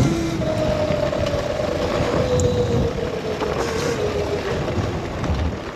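Modded Razor MX650 electric dirt bike's motor whining, one steady tone that slowly drops in pitch as the bike eases off, over a steady rushing noise.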